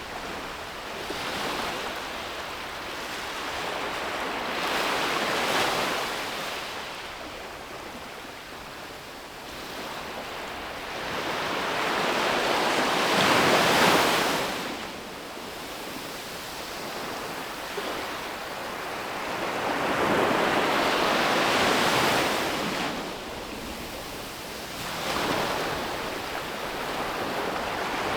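Sea waves breaking and washing up a beach in a slow, uneven rhythm, each wave swelling to a rush and then fading. The biggest break comes about halfway through.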